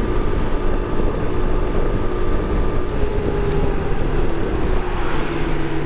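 Kawasaki KLX300's single-cylinder engine running steadily under way, with a steady rush of wind noise; its note drops slightly a few seconds in.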